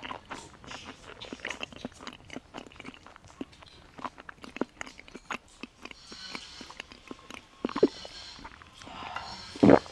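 Close-up eating sounds: a person biting and chewing roast chicken, with many small wet crackling clicks, and two louder knocks near the end.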